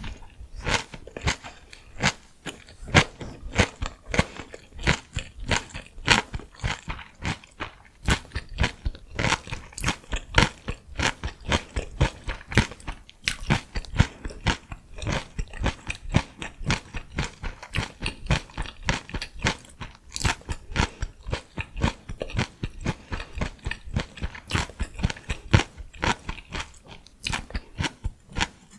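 Close-miked chewing of crunchy vegetables: a steady run of crisp bites and crunches, several a second.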